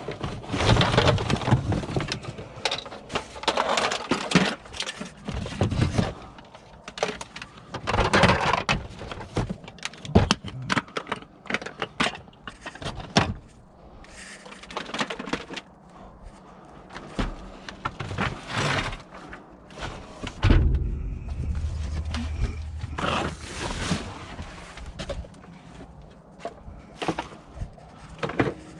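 Discarded scrap items being handled: irregular knocks, clunks and clattering throughout, with a low rumble starting about twenty seconds in.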